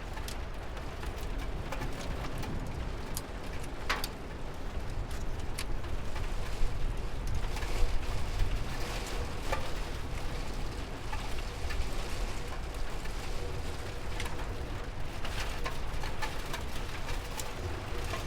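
Steady rain patter, with scattered sharper drip ticks over a low rumble.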